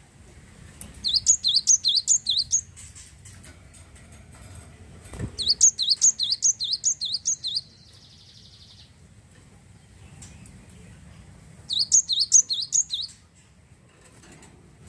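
Glatik wingko (cinereous tit) singing three bursts of quick, high, repeated chirping notes, about four notes a second, with pauses between the bursts.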